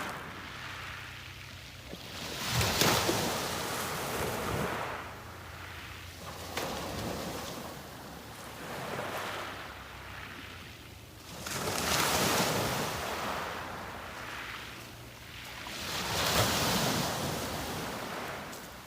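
Waves breaking on the beach and washing back, a new surge every few seconds, the loudest about three, twelve and sixteen seconds in.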